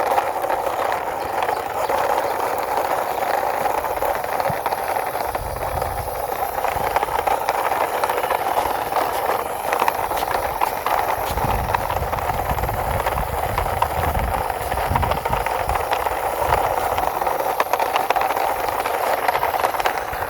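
Red plastic toy trailer truck being run along the ground: a steady rattling noise from its wheels and body, with a few low rumbles as it bumps along.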